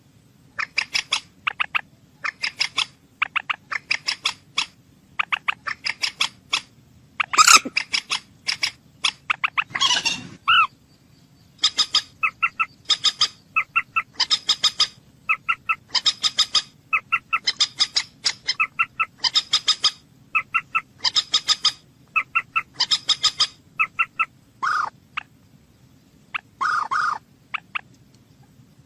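A bird calling over and over in quick clusters of short, sharp, high notes, with a few longer, lower calls in between.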